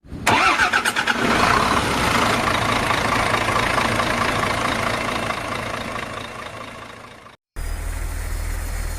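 A sudden hit, then a loud noisy rush that fades away over about six seconds and cuts off. After a brief silence, a diesel truck engine idles with a steady low hum.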